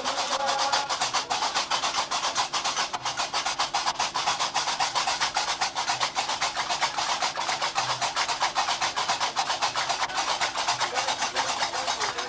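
Qraqeb, the Gnawa iron castanets, clattering in a fast, even rhythm of metallic clacks, with a faint steady low drone underneath.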